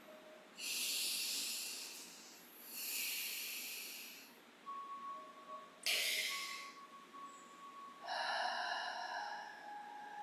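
A person breathing slowly and deeply: two long airy breaths, then a sharper one starting suddenly about six seconds in. Near the end comes a longer breath carrying a faint whistling tone.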